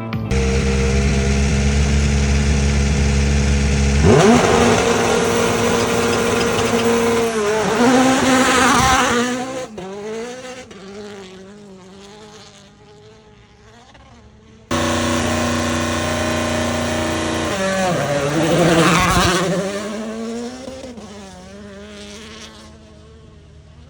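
Two turbocharged four-cylinder rally cars flat out on a gravel stage, one after the other: each engine rises as it approaches, drops in pitch as it passes, then fades away with quick upshifts. There is an abrupt cut between the two passes about two-thirds of the way through.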